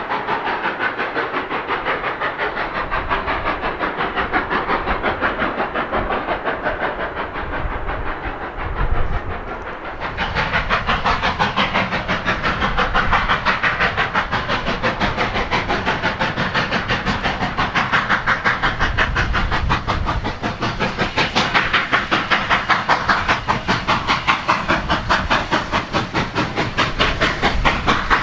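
Narrow-gauge steam locomotive working, its exhaust chuffing in a quick, even rhythm over steady steam hiss. The sound grows brighter and a little louder about ten seconds in.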